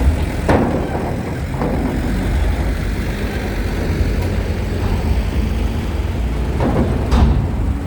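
Trucks and buses running at low speed during ro-ro ferry loading, a steady deep engine rumble. Two sharp knocks ring out, one about half a second in and one near the end.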